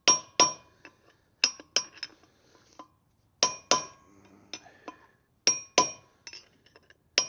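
Hammer striking an old bearing race laid on top of a new wheel-bearing race, driving the race into a Land Rover Defender 90 hub. The blows are sharp and ringing, metal on metal, mostly in pairs with pauses of a second or two between them; the race is not yet fully seated.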